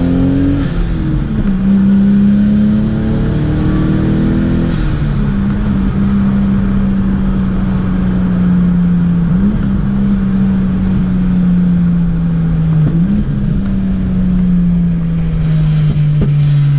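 Turbocharged 2-litre 1G-FE inline-six in a Lexus IS200 running under way, its note holding fairly steady and slowly sinking in pitch. The note briefly dips and recovers three times.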